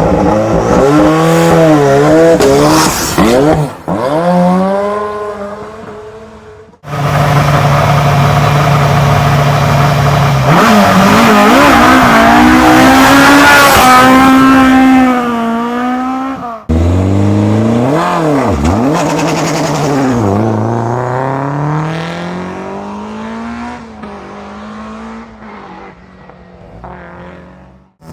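Three rally cars launching one after another. First a Ford Sierra RS Cosworth Group A revs and pulls away with rising and dipping revs through gear changes. About 7 s in, a Ford Escort RS 2.0 Mk2 holds steady high revs on the line, then launches with climbing revs. About 17 s in, a BMW M3 Group A launches, accelerates up through the gears and fades as it drives away.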